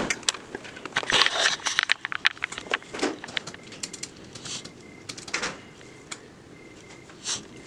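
Irregular clicks, taps and knocks of things being handled at a counter, densest in the first two seconds and thinning out towards the end.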